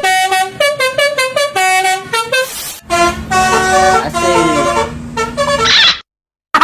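Multi-tone 'telolet' bus horn playing a quick tune of stepped notes, then a second run of notes over a steady low hum. It cuts off suddenly about six seconds in.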